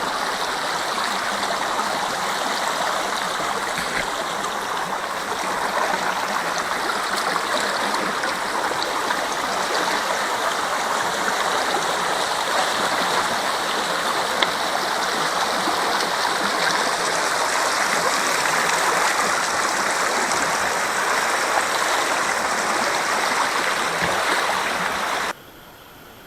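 Spring water boiling up out of the ground and running off, a steady rush of gurgling, splashing water. It cuts off suddenly about a second before the end.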